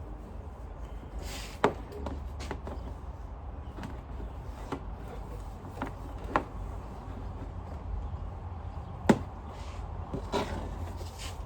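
Scattered clicks and knocks of hard parts being handled during a vacuum cleaner repair, two of them sharper, about a second and a half in and about nine seconds in, over a low steady hum.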